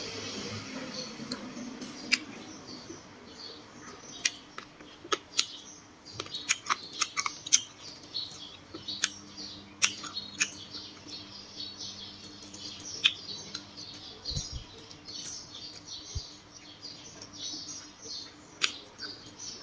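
Close-up chewing and crunching of crisp grilled water snake: irregular sharp crackles and clicks, several in quick succession at times.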